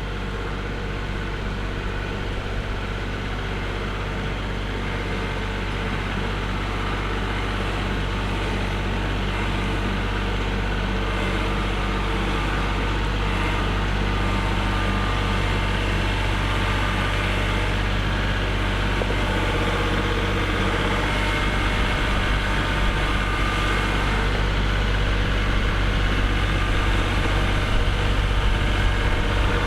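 Kubota tractor's diesel engine running steadily, slowly getting louder.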